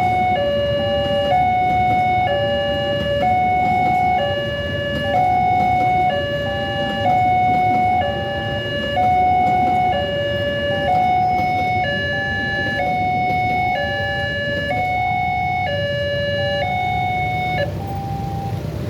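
Railway level-crossing warning alarm sounding a slow two-tone alternation, about one high–low pair every two seconds, over the steady low rumble of a passing train. The alarm tones thin out near the end.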